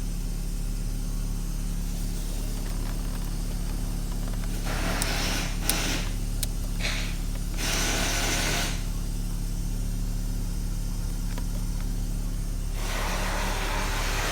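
Ford Focus 2.0-litre four-cylinder petrol engine idling steadily on a hot test, running quietly, a sign of a good engine. A few stretches of hissing noise come and go over it, about a third of the way in, around the middle, and near the end.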